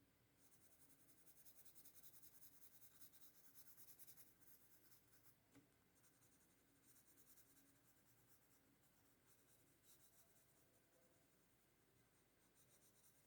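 Faint pencil scratching on paper: quick back-and-forth shading strokes, busiest in the first few seconds and then lighter.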